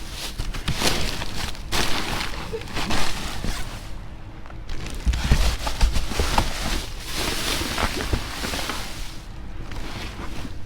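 Rummaging through trash in a dumpster: plastic bags and packaging rustling and crinkling in irregular bursts, with a few low knocks and thumps.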